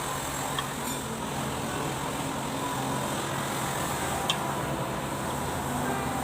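Kubota V1501 four-cylinder diesel engine running steadily, with a few faint clicks.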